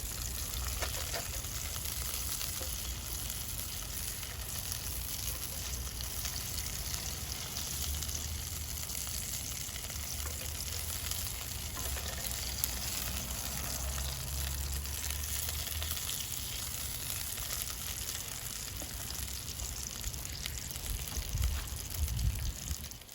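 Food frying in a pan over a campfire, a steady sizzle throughout.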